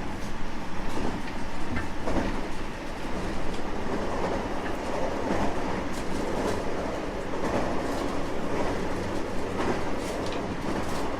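225 series 5000-subseries electric multiple unit running on the line: a steady rumble of wheels on rail, with short clacks from rail joints now and then.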